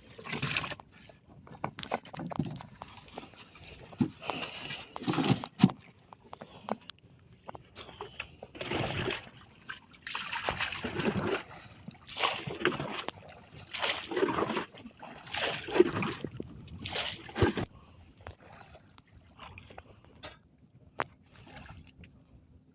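Water splashing and sloshing against a small fishing boat, in repeated strokes about every one and a half seconds, fading near the end.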